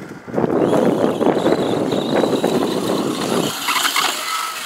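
Traxxas Slash 4x4 electric RC short-course truck driving hard across dirt: a loud rush of tyres and drivetrain for about three seconds, then fainter and thinner near the end as it moves away.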